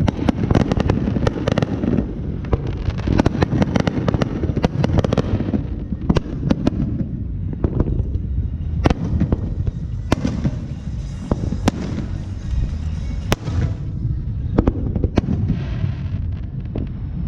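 Fireworks going off: a dense run of rapid crackling for about the first five seconds, then separate sharp bangs every second or so, over a low continuous rumble.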